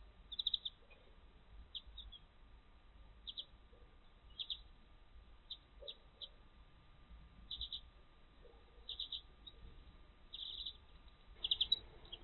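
Garden birds chirping: short, high chirps in quick clusters, repeated every second or two, the loudest cluster near the end.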